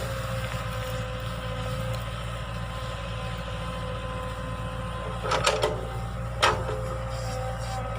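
Excavator's diesel engine running steadily with a thin steady whine over it, and a few sharp knocks about five and a half seconds and six and a half seconds in.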